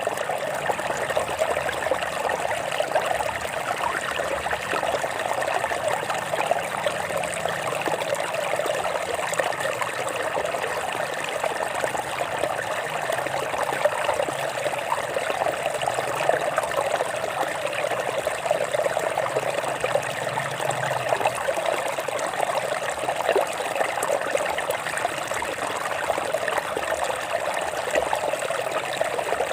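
Stream water flowing steadily over rocks, an unbroken babbling rush.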